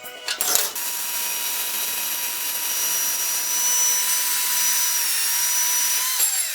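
A power tool with a high whine starts up and runs steadily for about five seconds, then is switched off, its pitch falling as it winds down. A few metal clicks come just before it starts.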